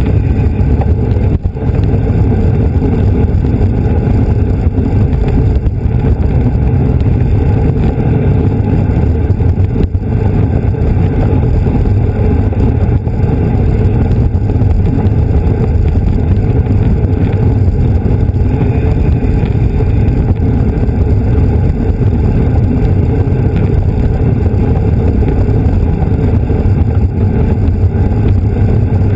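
Wind rushing over the microphone of a camera riding along in a bicycle race at speed, a loud, steady low rumble with no break.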